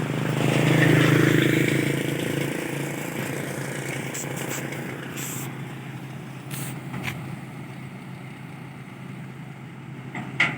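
Heavy vehicle's diesel engine running, swelling louder about a second in and then easing back to a steady hum, with a few light clicks midway and one sharp knock near the end.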